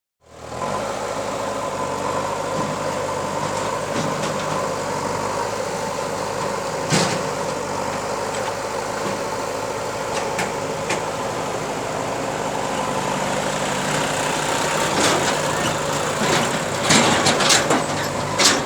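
Heavy diesel machine engine running steadily at idle, with a few sharp knocks about seven and ten seconds in and a quicker run of knocks in the last few seconds.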